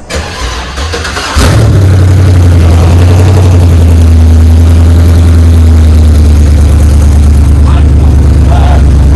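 Freshly swapped-in V8 engine cranking for about a second and a half, then catching and settling into a loud, steady idle.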